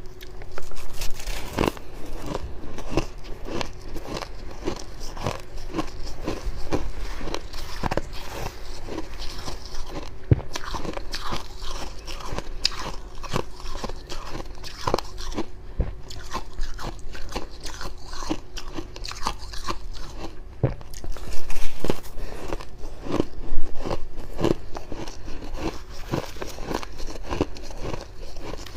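Close-up biting and chewing of fluffy freezer frost: a continuous run of irregular dry crunches, louder for a few seconds past the middle.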